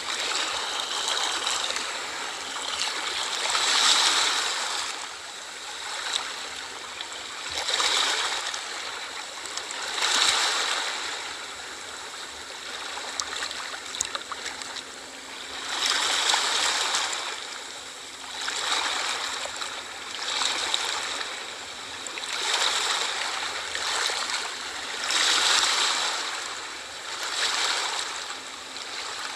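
Sea waves washing onto a shore, the noise swelling and ebbing every two to four seconds.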